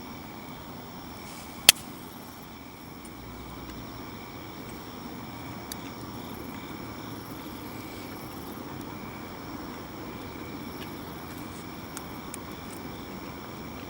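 Steady outdoor ambience with insects trilling in several high steady tones over a low rushing background. A single sharp snap comes under two seconds in, with a few faint ticks later.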